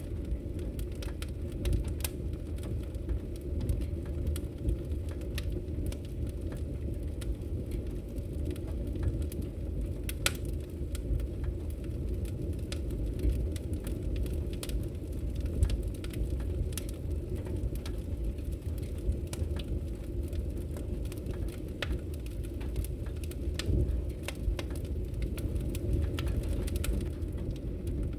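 Wood logs burning in a fireplace, with irregular sharp crackles and pops over a steady low rumble.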